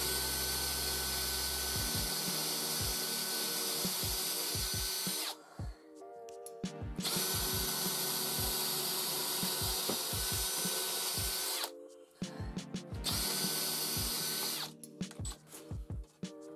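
A power drill running in three bursts, two of about five seconds each and a short one near the end, its motor whine steady in pitch. Music with a steady beat plays underneath.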